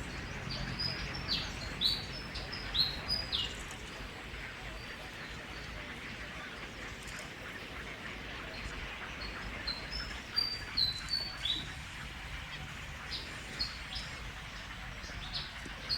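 Bird chirps: short, high, falling notes in quick bursts, one cluster about a second in and another about ten seconds in, with a few more near the end, over a steady background hiss.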